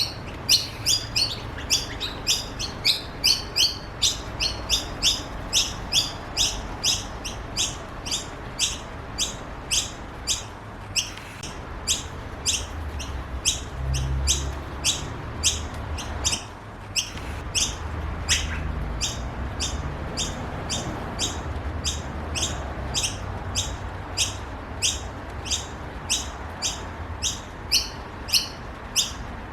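Noisy miner chicks begging for food: a steady run of short, high, repeated calls, about two a second, with several calls overlapping in the first few seconds.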